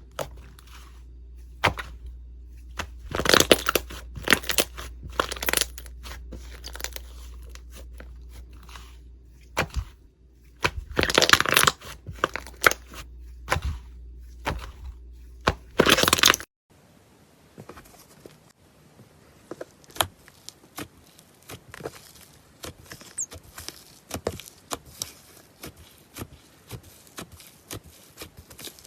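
Slime being handled by hand: crunchy crackling and crinkling with sharp pops and louder squeezing bursts. About two-thirds of the way through it cuts abruptly to a quieter run of fine, rapid clicks and crackles.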